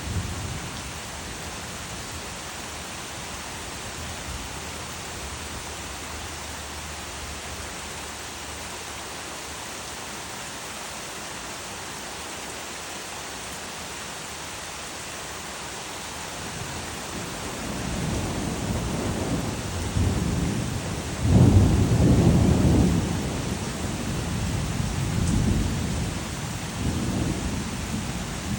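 Steady rain, with a roll of thunder that builds about two-thirds of the way through, breaks into its loudest crash a few seconds later and then rumbles away in several fading swells.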